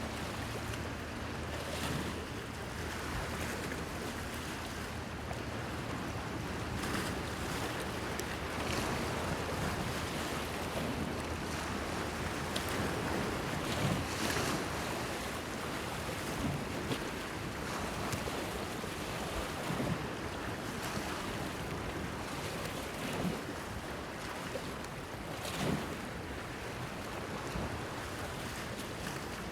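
Small sea waves washing and splashing against a breakwater pier, with a steady wash of water and wind. Several louder splashes break through at irregular intervals.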